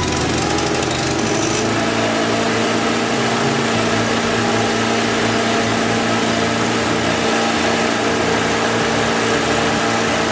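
A small motor running steadily with a constant mechanical hum.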